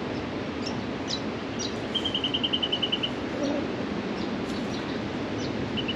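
Wild birds calling: a fast trill of about a dozen short, even notes about two seconds in, starting again near the end, with short high descending chirps scattered between, over a steady background rush.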